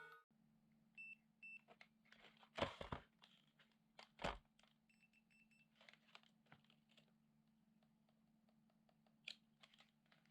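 Near silence over a steady low hum, with scattered faint clicks and handling knocks and a few very short, faint high beeps.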